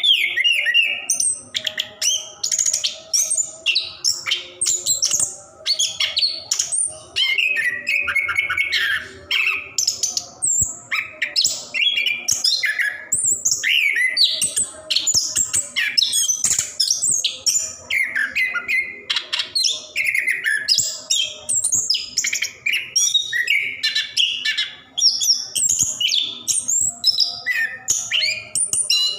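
Orange-headed thrush (anis kembang) singing continuously in full song: a rapid, unbroken run of varied whistled and chattering phrases with hardly a pause between them.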